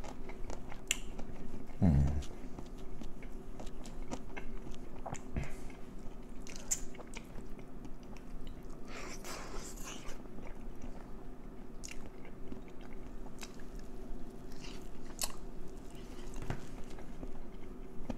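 Close-miked eating: chewing and biting into fried chicken and pickles, with wet mouth sounds and short crunchy clicks, a longer crackly crunch about nine seconds in.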